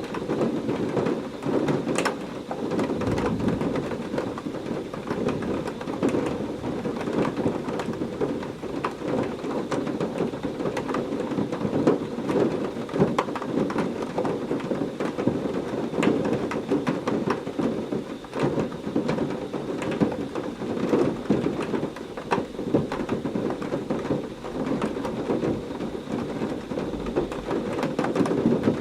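Heavy rain falling steadily, with many sharp close drop hits, and low rolls of thunder now and then in a thunderstorm.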